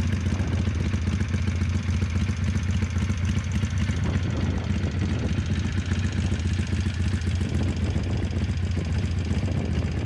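A 2015 Harley-Davidson Sportster Iron 883's air-cooled V-twin idling steadily through aftermarket Khrome Werks Tapered 3 exhausts, with no revving.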